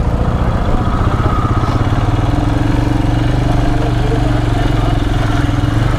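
Royal Enfield Himalayan's single-cylinder engine idling steadily, its even thump close to the microphone.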